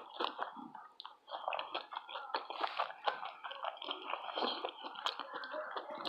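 Close-up mouth sounds of a person chewing and biting into a crunchy taco, with irregular wet crackles and crunches.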